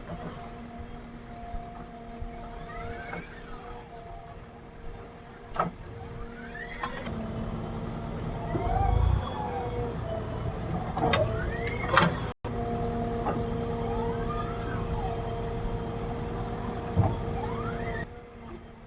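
Diesel engine of a JCB 3DX backhoe loader running with a steady whine. It gets louder about seven seconds in and drops back near the end, with a few sharp knocks along the way. A brief break comes about twelve seconds in.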